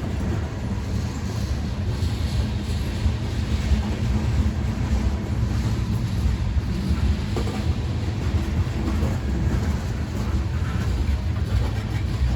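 Freight train rolling past, a steady low rumble of wheels on the rails.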